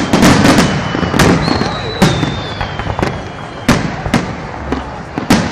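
Festive fireworks salute: a quick irregular series of loud bangs from shells bursting overhead, most crowded at the start and again near the end, with a thin high whistle sliding slightly down in pitch through the middle.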